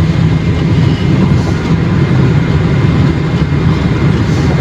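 Steady road and engine noise inside a moving vehicle's cabin at highway speed: a loud, even low drone of tyres and engine.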